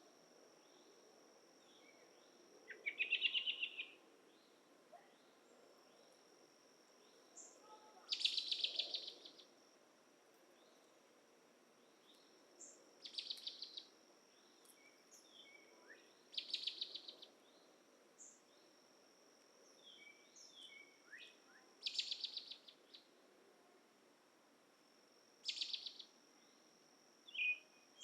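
A bird at dusk repeats a short, rapid trill about a second long every few seconds, over a steady high-pitched insect drone.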